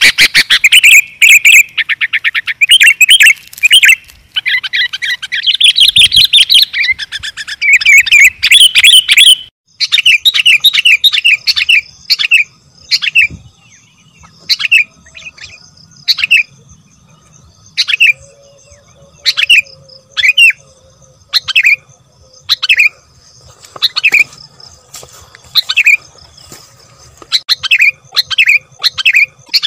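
Sooty-headed bulbul (kutilang) calls used as a lure recording: a dense run of rapid chirps, then after about nine and a half seconds short separate chirps, about one or two a second.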